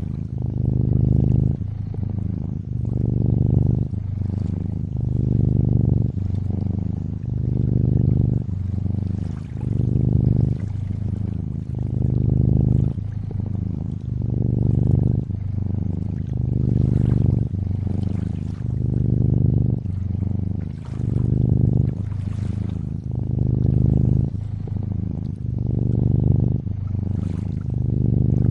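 A domestic cat purring steadily, the low purr swelling and fading in a slow, even rhythm with each breath. Gentle water trickling and lapping runs faintly underneath.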